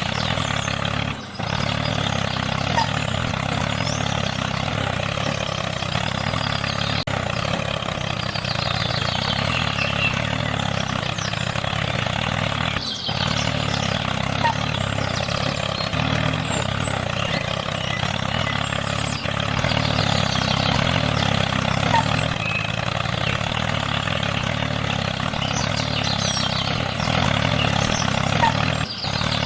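Small electric motor running steadily with a buzzing drone, cut off briefly several times by sharp breaks.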